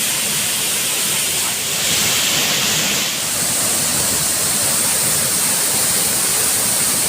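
Waterfall: water falling steadily with a dense, even rush, its tone shifting briefly about two seconds in.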